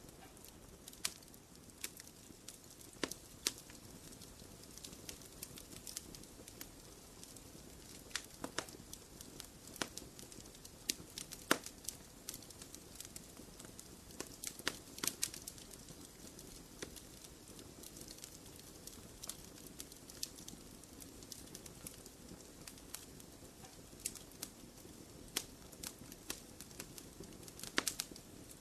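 Wood fire burning in a fireplace: a soft steady hiss with irregular sharp crackles and pops, a few bunched together about halfway through and near the end.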